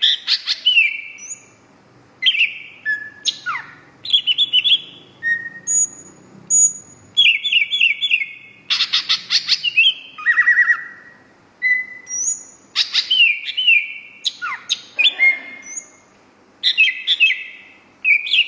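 Cucak rowo hijau songbird singing in a run of varied phrases: quick repeated high chirps, downward-sweeping notes and short clear whistles, each phrase separated by a brief pause.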